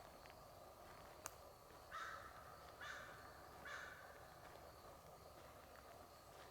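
A crow cawing three times, evenly spaced, each caw short and harsh. A single sharp click comes about a second in, before the first caw.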